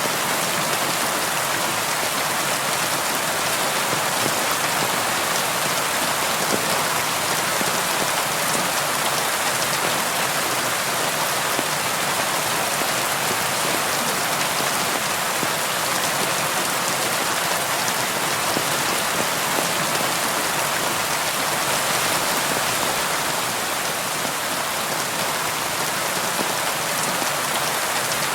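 Steady rain with many fine drop ticks, pattering on window glass.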